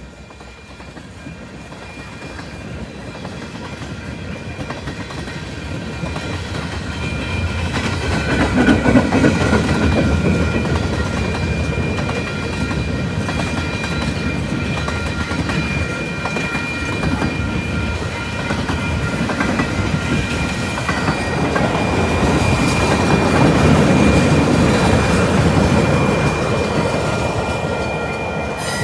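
A train passing close by: the rumble swells over the first several seconds as it draws near, then holds as a steady rumble and clatter of wheels on the rails, with thin, steady high ringing tones above it.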